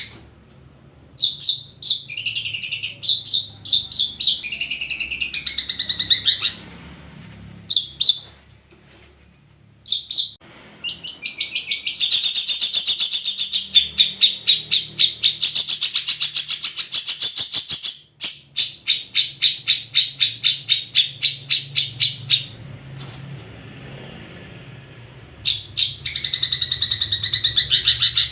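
Long-tailed shrikes (cendet) singing in a group: fast runs of sharp, repeated chirping notes in bouts, broken by short pauses.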